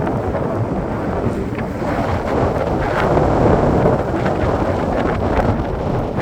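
Wind blowing on the microphone: a loud, steady rumbling rush with a few faint ticks.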